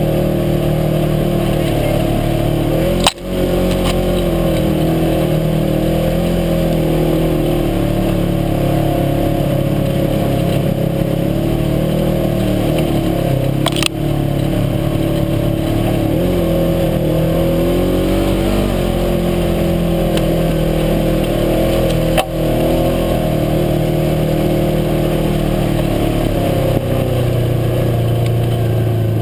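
UTV engine running under way, its pitch rising and falling with the throttle. Three sharp knocks break through, about 3, 14 and 22 seconds in.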